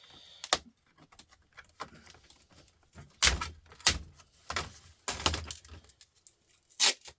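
Laptop parts being pried and broken apart by hand: a series of sharp cracks and clatters of plastic and metal pieces, the loudest a little over three and about four seconds in.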